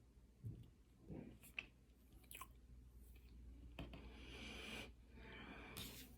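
Quiet chewing of cornstarch: soft mouth clicks and crunches, then two longer, hissing crunches in the second half.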